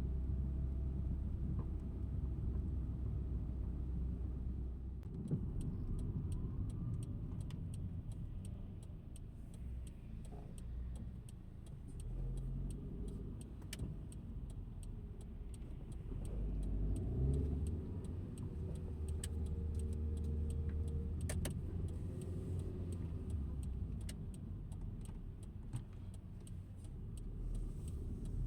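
Car driving, with a steady low rumble of engine and road noise and scattered light clicks.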